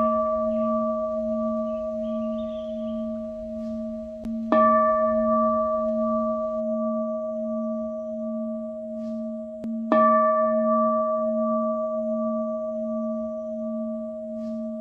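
A bell tone struck twice, about five seconds apart, each strike ringing on with a slow wobble; the ring of an earlier strike is still sounding at the start.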